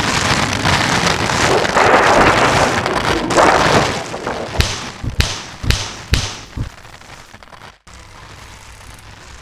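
Homemade foley of heavy rain as a loud steady hiss that swells for a couple of seconds, then five or six sharp knocks or crashes in quick succession, after which the rain goes on more quietly.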